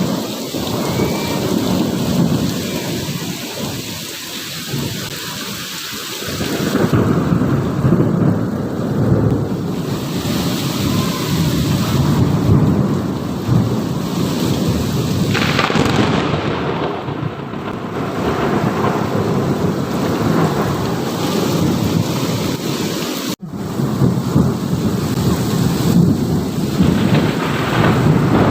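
Heavy rain pouring in a thunderstorm, with thunder rumbling under the steady hiss of the rain. The sound swells and eases, and cuts out for an instant near the end.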